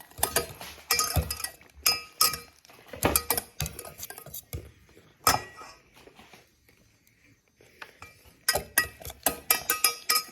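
A whisk clinking and knocking against a bowl as mashed banana is whisked, in quick irregular strikes. It pauses for a couple of seconds in the middle, then goes fast again near the end.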